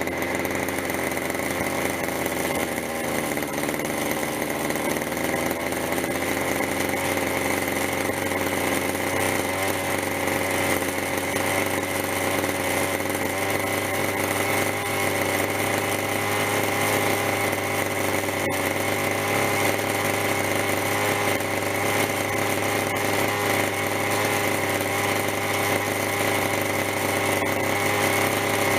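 Zenoah G26 two-stroke gasoline engine of a radio-controlled helicopter running steadily, warmed up with its fuel mixture set rich. Its pitch rises a little over the first few seconds, then holds even.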